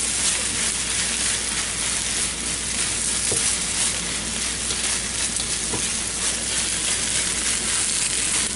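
Fried rice sizzling steadily in a hot wok while a wooden spatula stirs and scrapes it around the pan, with a few light knocks of the spatula on the wok.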